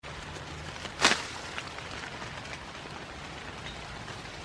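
Steady rain falling on leaves and grass, with one sharp loud tap about a second in and a few lighter ticks.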